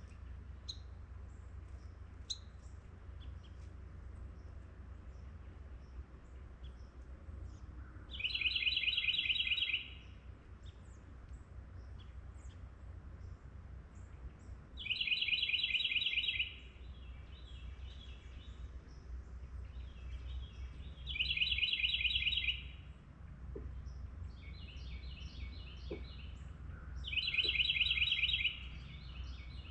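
A songbird singing a rapid, even trill four times, each song lasting about a second and a half and coming roughly every six seconds, with a slower run of notes after some of them. A steady low rumble of background noise lies underneath.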